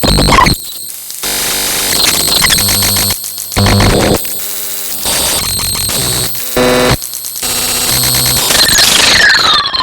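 Loud electronic static and noise, cut into abrupt segments that change every second or so, from hissing static to buzzing tones, with short dropouts between them. Near the end, several whistling tones fall in pitch together.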